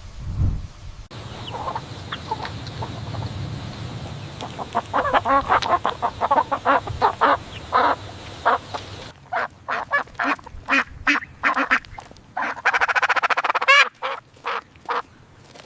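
Farm waterfowl calling: a quick run of short, pitched calls, then, after a cut, calls at about two a second with one longer drawn-out call a couple of seconds before the end. A low rumble fills the first second.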